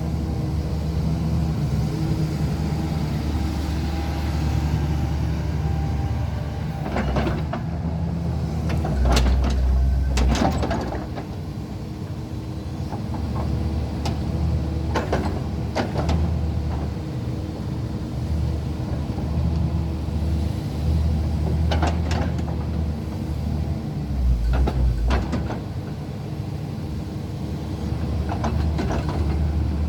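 Tracked excavator's diesel engine running, its low hum swelling and easing as the load changes, with clanks and short hydraulic hisses at intervals.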